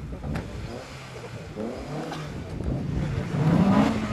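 A car engine revving as the car accelerates away, with its pitch climbing to the loudest point near the end.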